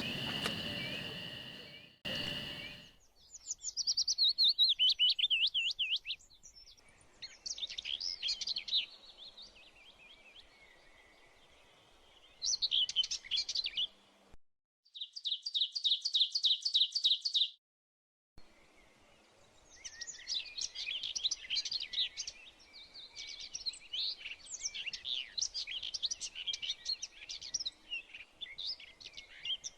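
Songbirds singing in a series of short, high warbling and chattering phrases, broken by abrupt cuts and brief gaps. About halfway through comes a fast, even trill of repeated notes, and the last third holds dense overlapping chatter. The first two seconds hold a steady hiss with a high steady tone that cuts off suddenly.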